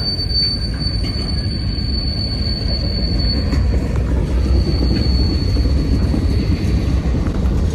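Freight train railcars rolling slowly, a steady low rumble with a thin high wheel squeal that drops away about three and a half seconds in and comes back briefly around five seconds.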